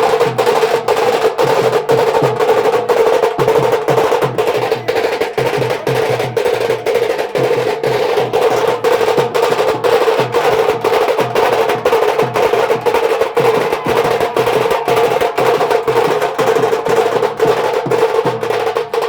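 A live band's drums and percussion playing a loud, steady rhythm of about two to three sharp beats a second, over a steady held tone.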